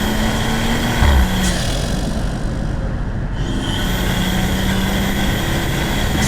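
BMW 540i's turbocharged B58 inline-six, fitted with an aftermarket cold air intake, running steadily under way with a high whistle above the engine note. About a second in, the engine note drops with a short low thump, then the note builds again.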